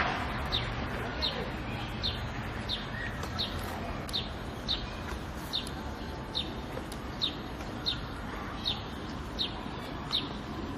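A small bird repeating one short, high, slightly falling chirp, evenly about once every 0.7 seconds, over a steady low background rumble.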